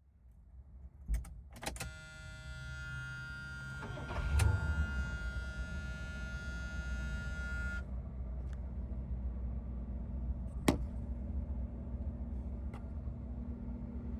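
1977 Cadillac Eldorado Biarritz's V8 being started and left idling: a couple of clicks, a steady warning buzzer that sounds for about six seconds, a surge as the engine catches about four seconds in, then a steady idle with a single sharp click later on.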